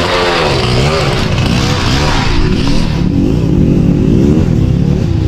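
Dirt bike engine running under constant throttle changes, its pitch rising and falling every second or so as the rider blips the throttle and feathers the clutch to pick through rocks.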